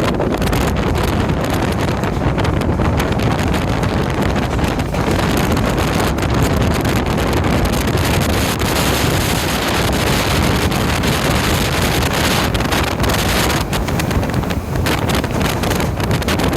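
Diesel intercity train running along the line: a steady, loud rumble and rush of wheels and air, with wind buffeting the microphone.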